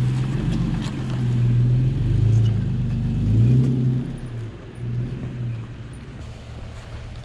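A 4x4's engine working slowly over rocks, its pitch rising and falling with the throttle, then easing off and quieter about four seconds in.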